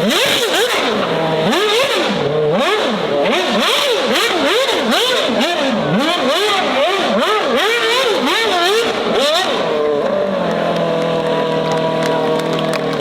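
Car engine revved hard over and over, its pitch sweeping up and down about twice a second, then settling into a steady run about ten seconds in.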